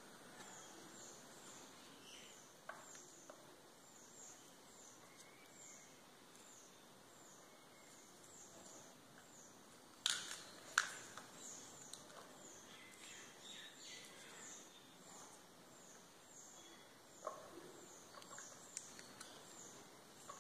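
A bird chirping faintly over and over: short high falling notes about twice a second. A few sharp knocks break in, the loudest two close together about halfway through.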